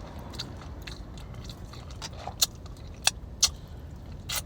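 Close-mouthed chewing of a mouthful of butter chicken and garlic naan, with a few sharp wet mouth smacks in the second half. A steady low rumble runs underneath.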